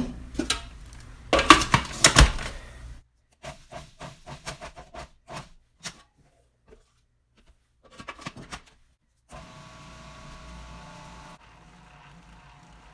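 Kitchen clatter: a few loud knocks and clinks of dishes and utensils, then scattered light clicks. Near the end comes a faint steady hum.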